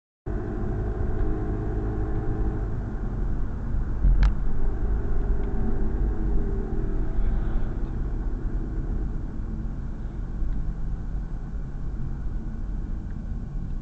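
Car engine and road noise, a steady low rumble, with a single sharp knock about four seconds in.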